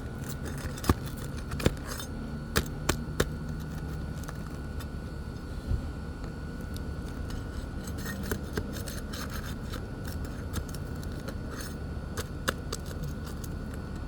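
Crowbar prying up three-tab asphalt roof shingles: a scattered string of sharp clicks and snaps, loudest and closest together in the first few seconds, with a few more later.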